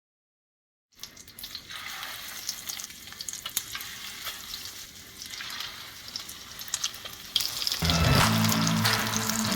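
Food frying in a pan, sizzling with many small crackles; it starts about a second in, after a brief dead silence. Music with a steady pitched bass comes in over the sizzle near the end.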